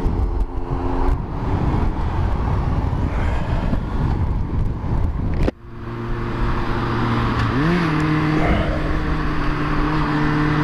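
Motorcycle engine running under way with wind noise on the helmet microphone. About halfway through the sound drops out briefly, then comes back as a steady engine note that rises a step a couple of seconds later and holds.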